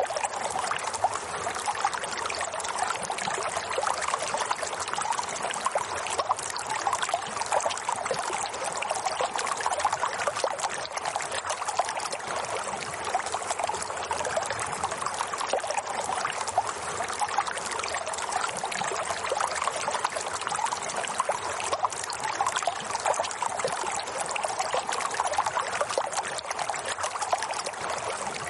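Running water flowing and trickling steadily, with a fine splashing texture and no pauses.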